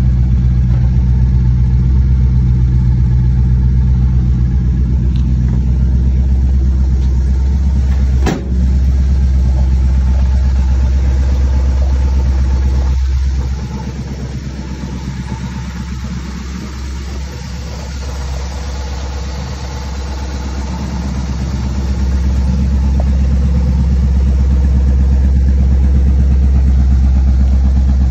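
1936 Ford coupe rat rod's engine running at a steady idle with a low rumble. A single sharp knock comes about eight seconds in. The engine sound falls off for several seconds in the middle and comes back up near the end.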